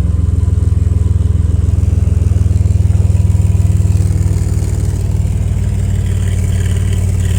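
Ford 3.5-litre twin-turbo EcoBoost V6 idling steadily, its aftermarket exhaust heard up close with an even low pulse, easing slightly about halfway through.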